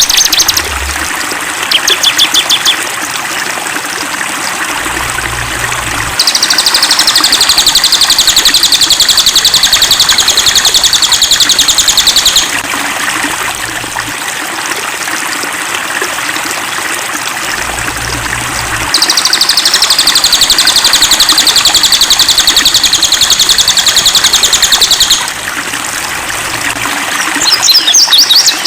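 Songbird singing long, fast, high trills, two of them about six seconds each, with shorter chirping bursts between, over the steady trickle of running stream water.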